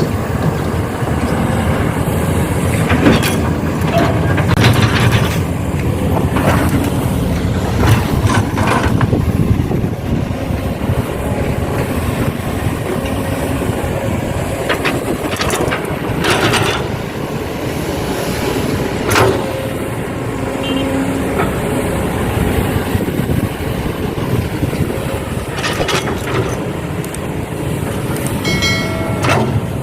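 Heavy diesel machinery, an excavator working beside dump trucks, running steadily with a low rumble, broken by scattered sharp knocks and clanks.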